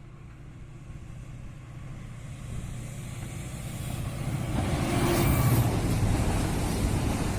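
Freight train approaching, its rumble growing steadily louder for about five seconds, then running loud and steady as it passes close by.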